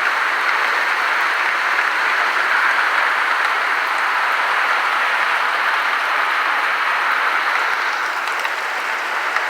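Torrential rain pouring down in a dense, steady hiss, easing slightly near the end.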